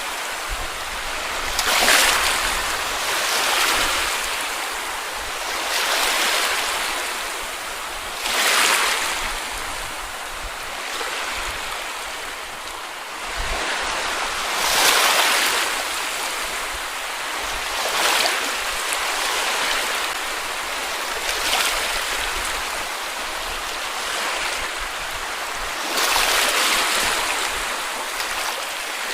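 Sea waves washing onto a beach, a steady hiss with a fresh surge every two to four seconds.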